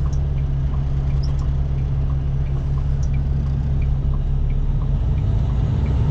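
Diesel engine of an International LT semi-truck running with a steady low rumble, heard inside the cab, growing louder about five seconds in. Faint even ticking about 1.4 times a second runs over it, like a turn signal.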